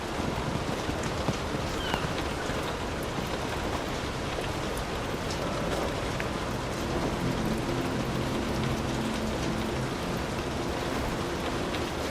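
Heavy rain falling steadily on a hut roof, a dense even hiss with scattered sharp drip ticks. A faint low rumble comes in during the second half.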